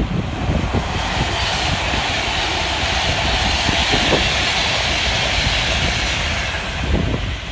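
Avanti West Coast express train passing at speed on the main line, a rushing noise of wheels and air that builds about a second in and dies away near the end. Wind buffets the microphone throughout.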